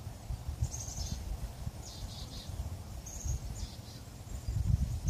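Small birds chirping: several short, high chirps and quick runs of repeated notes, over a low, steady rumble.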